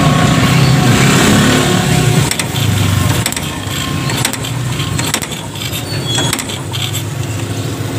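STX125 motorcycle engine being turned over for a spark test at the plug wire. A loud low pulsing chug runs for about the first three seconds, then it goes quieter with scattered sharp clicks.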